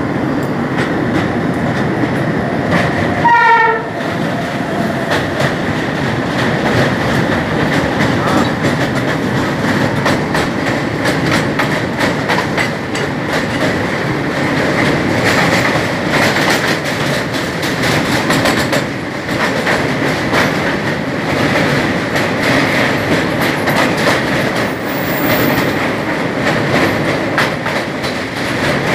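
Two express trains crossing on a steel truss rail bridge. A short locomotive horn blast sounds about three seconds in, then the Himgiri Express's coaches rush past on the adjacent track with continuous wheel rumble and rapid clickety-clack, heard from the open door of the other moving train.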